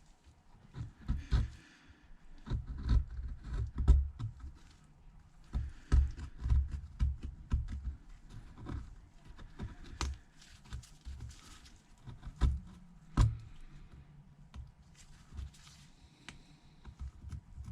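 Old adhesive being scraped off the edges of an iPhone XS Max with a small hand tool: irregular scrapes and sharp clicks, mixed with low knocks as the phone is handled, louder in bunches.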